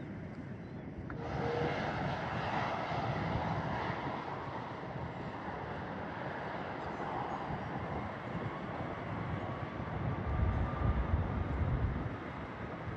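Jet engines of an Airbus A330-300 freighter running during its departure: a steady jet roar that comes in abruptly about a second in, with a low rumble growing stronger around ten seconds in.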